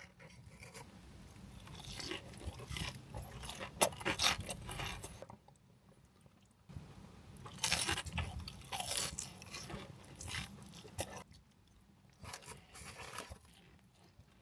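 Close-up crunching and chewing of crunchy fried food, in three bouts of bites with short pauses between.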